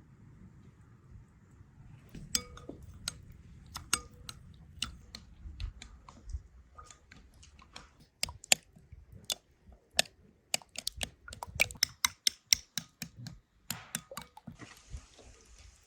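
Irregular light clicks and knocks of kitchen utensils at work, sparse at first and coming quickly from about eight seconds in, a few of them ringing briefly.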